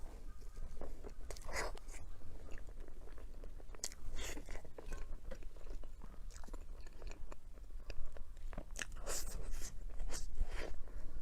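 A person biting into and chewing a crunchy chocolate dessert, with irregular crisp crunches throughout.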